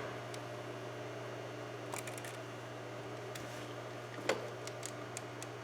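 A steady low background hum with a few faint clicks and taps, the loudest about four seconds in.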